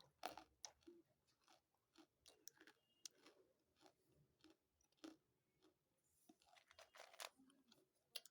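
Close-up chewing of hard, gritty pieces of Nakumatt: a run of short, sharp crunches and bites, faint.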